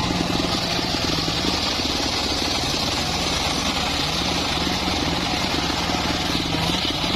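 Engine of a homemade circular sawmill running steadily, its pitch dropping a little through the middle and rising back near the end.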